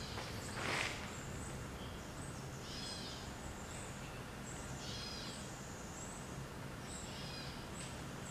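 A bird calls three times, about two seconds apart, a short call of several stacked tones, over faint high chirps and a low steady hum. A brief rustle about a second in is the loudest sound.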